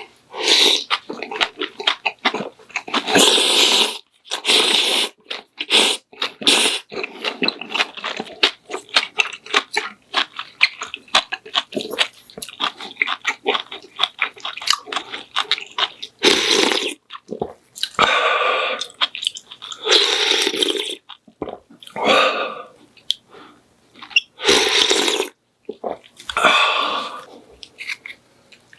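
Close-miked eating: wet chewing and slurping, with many short clicks and several longer slurps of about a second each.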